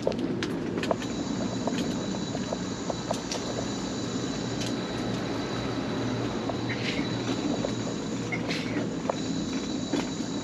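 Electric mobility scooter running along at a steady pace, its motor humming with a thin high whine, while the wheels tick and clack irregularly over boardwalk planks.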